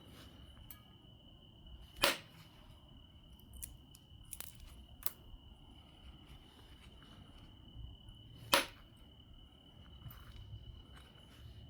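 Obsidian biface being flintknapped: two sharp clicks of flakes coming off, about two seconds in and again some six seconds later, with a few fainter ticks between them.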